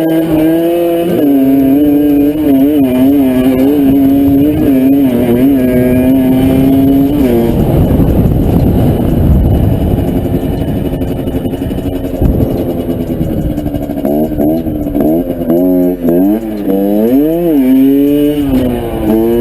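Motorcycle engine revving hard, its pitch wavering with the throttle. In the middle it turns rougher and noisier, then it comes back to a clear note that rises and falls several times near the end.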